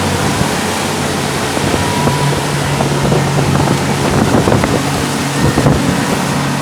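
Motorboat engine running steadily while towing a banana boat, with wind buffeting the microphone and water rushing past.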